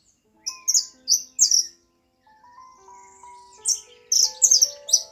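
Songbird chirping in quick bright bursts, one cluster in the first second and a half and another from near the middle to the end, over soft background music of long held notes.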